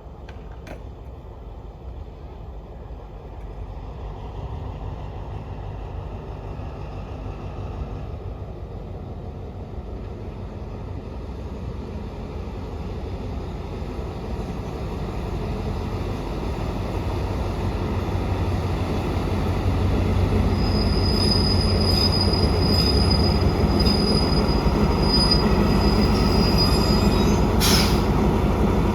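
A train running past, its sound building steadily over about twenty seconds and then holding loud. A thin, high wheel squeal sounds through the last several seconds.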